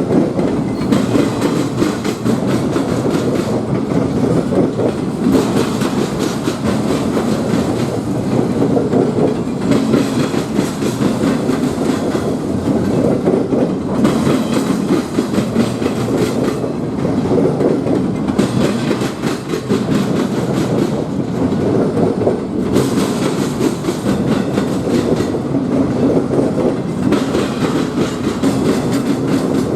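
A train rolling past, the wheels of its cars clicking and clattering over the rails in a steady, continuous run.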